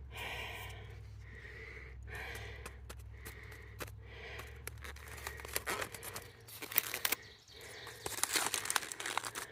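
Crinkling and tearing of what sounds like an aluminium foil packet of cooked meat and vegetables being opened, with many small clicks and scrapes, loudest in the last three seconds. A low steady rumble underneath stops about six seconds in.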